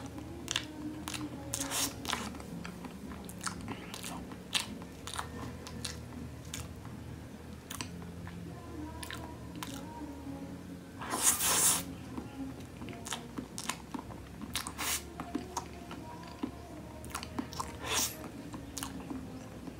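Close-miked eating sounds of soft cake being chewed: wet chewing and frequent mouth clicks and smacks. There is one louder, crunchier bite about eleven seconds in, as a forkful of mango graham cake goes into the mouth.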